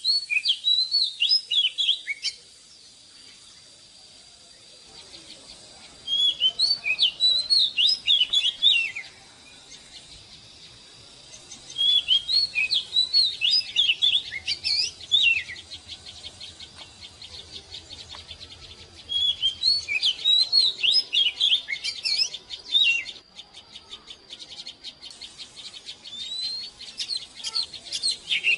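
Oriental magpie-robin singing: phrases of rapid, varied whistled notes, each lasting two to three seconds, repeated about every six seconds, with four loud phrases and a fainter run of notes near the end.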